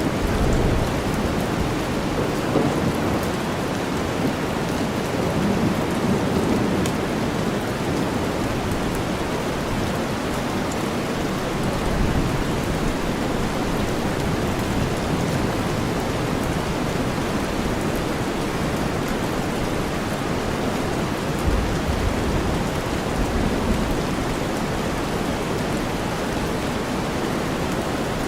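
Steady rainfall blended with deep white noise, a dense low-pitched hiss, with a few low rumbling swells of distant thunder.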